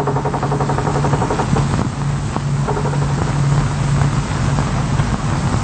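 Construction machinery running with a steady engine drone and a constant low hum.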